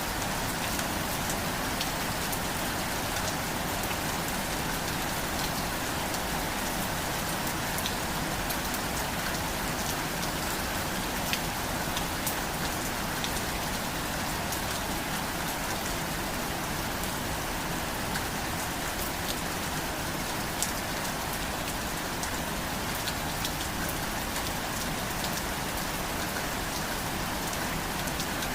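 Steady rain falling on a surface, a continuous hiss with many individual drop ticks and a few louder drips.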